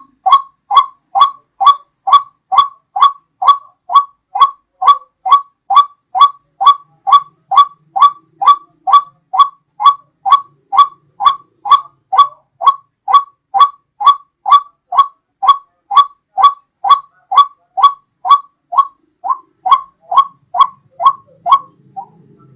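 White-breasted waterhen's 'ruak-ruak' call, used as a bird-hunting lure: short loud notes repeated evenly at about one and a half a second, stopping briefly near the end.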